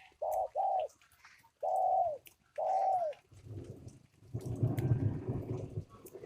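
A bird calling: four clear hooting notes, two short then two longer ones that drop in pitch at the end, followed by a louder, rough, low rasping call.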